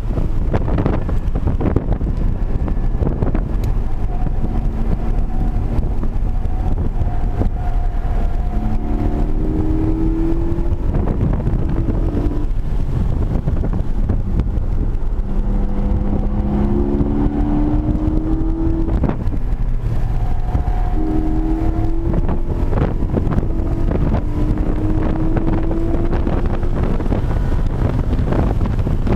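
Porsche 718 Cayman GT4's naturally aspirated 4.0-litre flat-six heard from inside the cabin at track speed, its note climbing in pitch three times as the car accelerates. A steady low rumble of wind buffeting on the microphone runs underneath.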